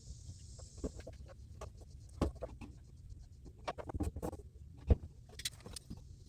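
Irregular clicks, taps and knocks from hands working with tools and PEX pipe, with a sharp knock about two seconds in and the loudest knock about five seconds in.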